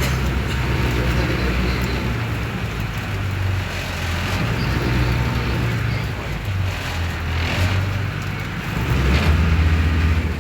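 Engine running steadily with a low hum, growing louder near the end.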